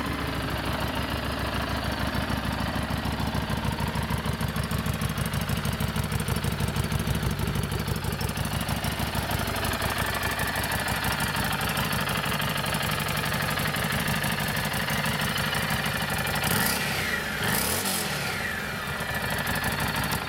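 The 2017 Harley-Davidson Street 500's 500cc liquid-cooled, fuel-injected V-twin idling with an even pulse. Near the end it is revved up and let back down a couple of times.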